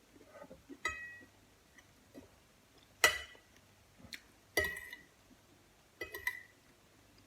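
Tableware clinking: a few sharp clinks, each with a brief ring, the loudest about three seconds in.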